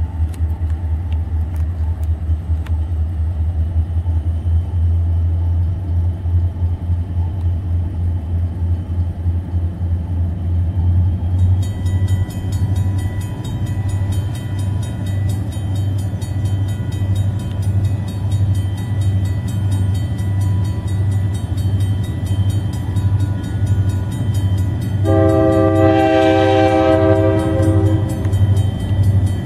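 Diesel freight locomotives approaching a grade crossing, with a steady low engine drone throughout. About twelve seconds in, the crossing bell starts ringing. Near the end, the locomotive's multi-chime air horn sounds a long blast.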